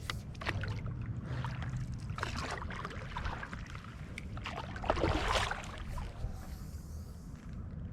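Water splashing and sloshing in irregular bursts as a paddleboard is moved across a flooded marsh flat, loudest about five seconds in, over a steady low rumble.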